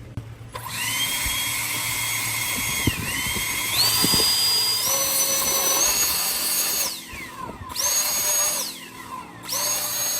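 Cordless handheld ducted-fan blower for drying cars, spinning up with a high whine that steps up in pitch several times as the trigger is pressed deeper, then winds down about seven seconds in. Two short blasts follow that start instantly at full speed and cut off, the instant-on response of this fan.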